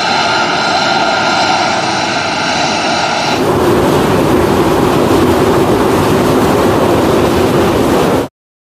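F-35B Lightning II jet engine running loud: a whine with several steady high tones over the roar for about three seconds, then a broad, deeper roar. It cuts off suddenly near the end.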